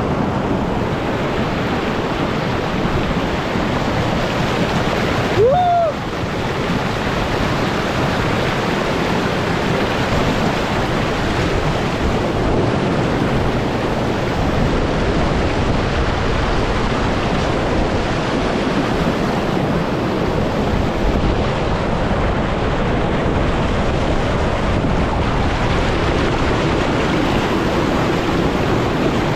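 Steady roar of rushing water from a waterfall, with a short rising whistle-like tone about five and a half seconds in.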